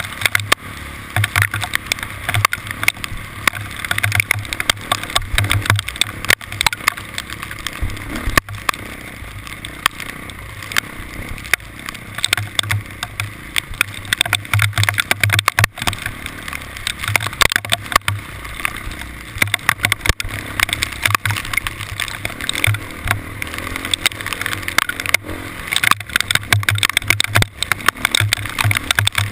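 Hail striking a moving vehicle: a dense, continuous patter of sharp clicks over steady road and wind noise with a pulsing low rumble.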